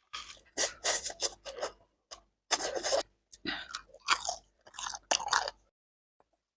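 Close-miked mouth sounds of someone chewing a mouthful of instant noodles, a rapid series of wet bites and chews that stops abruptly shortly before the end.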